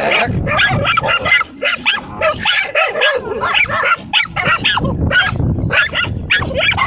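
Several dogs barking and yelping in quick, overlapping bursts as they attack a big lizard.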